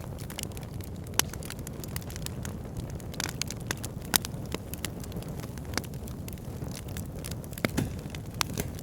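Wood fire in an outdoor fire pit crackling, with a steady low rumble of flame under irregular sharp pops and snaps, the loudest about a second in and about four seconds in, and a flurry near the end.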